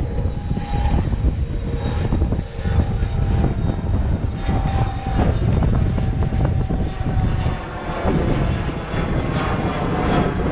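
Strong gusty wind buffeting the microphone with a heavy rumble, and a faint steady droning tone held over it.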